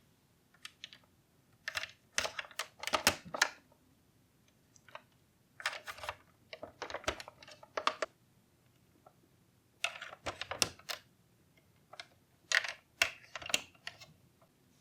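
Small hard plastic parts of a model engine kit clicking and tapping as they are handled and fitted together, in irregular clusters of sharp clicks with short quiet pauses between.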